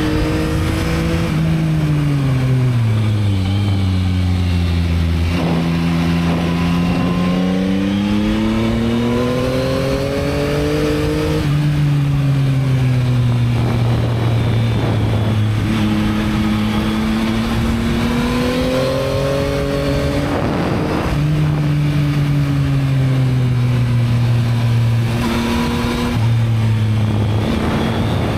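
Yamaha MT-09 (2022) three-cylinder engine on its stock exhaust, under way. The revs sink over the first few seconds, then climb and fall in several swells, each broken by a sudden pitch change at a gear shift.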